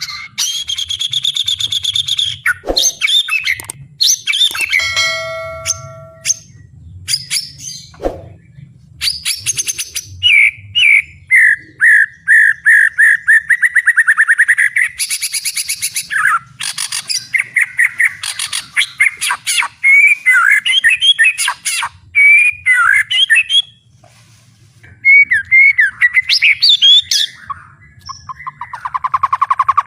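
White-rumped shama singing loudly in a long, varied song of whistled phrases, fast rattling trills and chattering notes, with brief pauses about eight and twenty-four seconds in.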